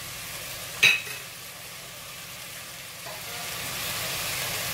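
Chicken pieces sizzling as they sauté in an aluminium pot, a steady frying hiss that grows a little louder near the end, with one sharp clink about a second in.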